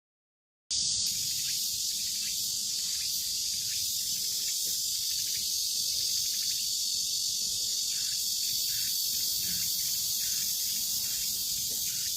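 Steady, high-pitched chorus of insects, like crickets or cicadas. It starts abruptly just under a second in and cuts off suddenly right at the end.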